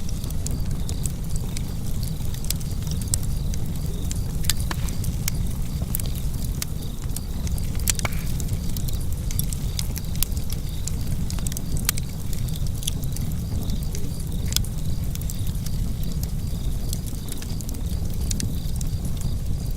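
Wood fire burning in a fireplace: a steady low rumble of the flames with frequent irregular crackles and pops, a few sharper pops standing out.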